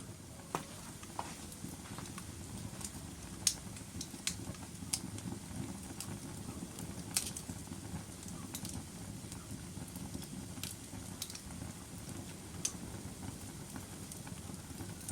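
Logs burning in a fireplace: a steady low rumble of flames, broken by irregular sharp pops and crackles from the wood, about ten in all. The loudest pops come a few seconds in and again about halfway.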